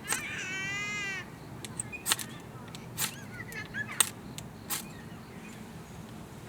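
A wood campfire crackling, with sharp pops every second or so. About the first second is taken by one drawn-out animal call, most like a crow's caw, which is the loudest sound. Faint short bird chirps come in the middle.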